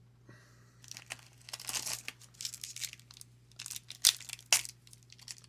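A trading-card pack wrapper crinkling and tearing as it is opened by hand, in irregular rustling bursts with two sharp snaps near the end.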